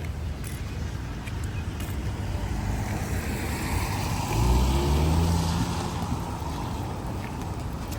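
A motor vehicle passing on a wet road: tyre hiss builds, and its engine note is loudest about four to six seconds in, over a steady low rumble.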